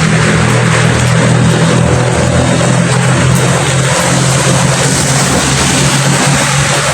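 Steady rain, an even hiss of falling raindrops, with a low steady hum underneath.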